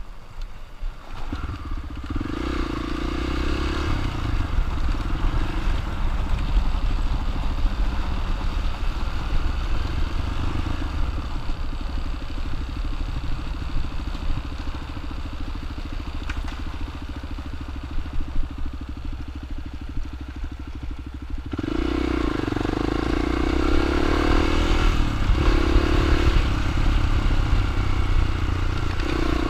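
Dirt bike engine running steadily under way, getting louder with shifts in pitch about three-quarters of the way through.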